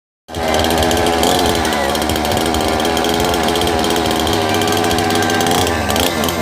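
A small engine running fast and steady; its pitch dips briefly near the end and then picks back up.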